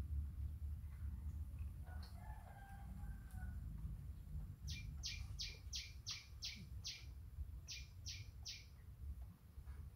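A bird calling in a rapid run of short high chirps, about three a second, eight in a row, then a brief pause and three more. Earlier, a faint drawn-out call that may be a distant rooster crowing, over a low steady rumble.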